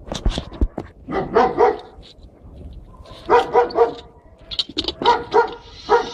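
A dog barking in quick runs of three or four barks, three times over, with a few sharp clicks at the very start.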